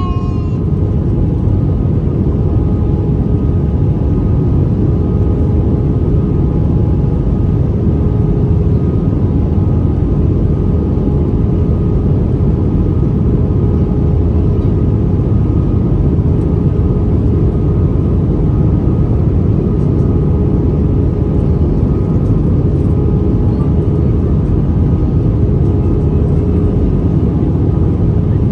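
Steady cabin noise of an Airbus A320-214 in flight, heard from a seat over the wing: a deep, even rumble of CFM56 engines and rushing air, with a faint steady hum on top.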